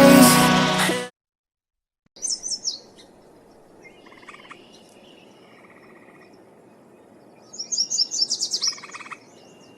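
Small songbird chirping in short phrases: a quick burst of high chirps about two seconds in, softer calls a little later, and a longer run of rapid chirps near the end, over faint background hiss. Background music fades out in the first second.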